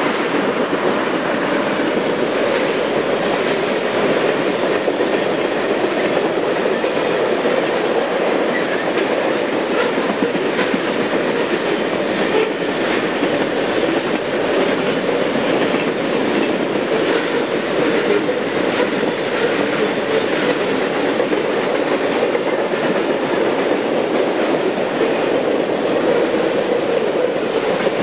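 Freight cars of a long train passing at speed: steel wheels running on the rails with a steady, even rumble and a faint clickety-clack of wheels over rail joints.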